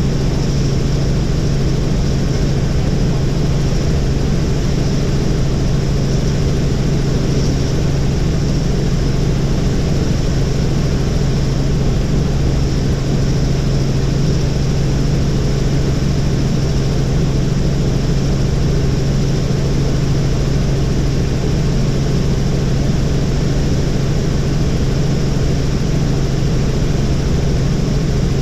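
Helicopter in flight: a steady, loud rotor and engine drone with a strong low hum that does not change.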